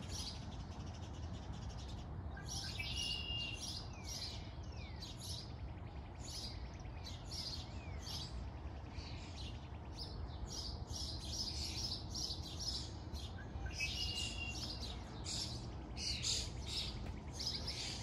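Songbirds singing and chirping in short, overlapping phrases, with a held high whistled note twice and a few quick falling notes, over a steady low rumble.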